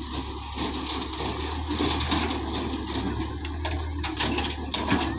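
Sonalika DI 750 tractor's diesel engine running steadily, with scattered clatter near the end.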